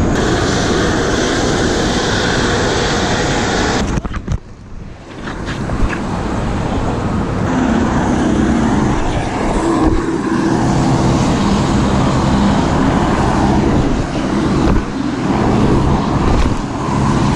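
Loud, steady city street traffic noise: vehicles running and passing close by. It drops away briefly about four seconds in, and an engine hum stands out a little past the middle.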